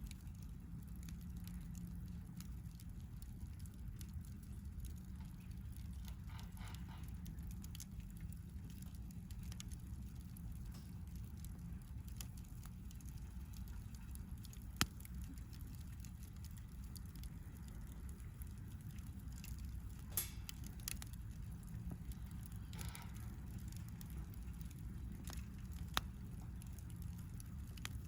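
Campfire burning with faint crackling and three sharp pops, about fifteen, twenty and twenty-six seconds in, over a low steady rumble.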